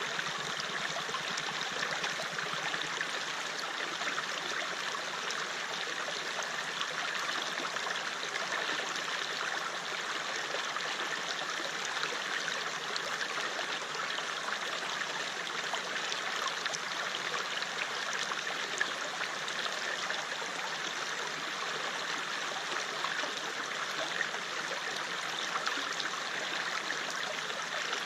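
River water flowing steadily over rocks: a continuous rushing and burbling with small splashes throughout.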